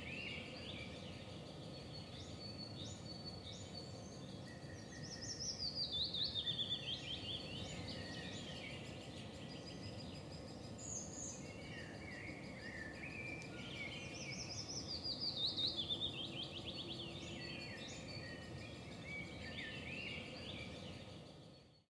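Wild birds singing outdoors, with scattered chirps over a steady low background hiss. Twice, about five seconds in and again about fifteen seconds in, one bird sings a run of quick notes falling in pitch, the loudest sound here. The sound fades out at the very end.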